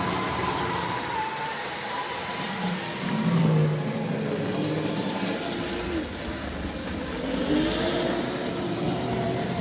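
Tri-ang Railways model train running on the layout's track: the small electric motor whirs steadily while lower tones from the motor and wheels waver up and down in pitch, a little louder about three and a half seconds in.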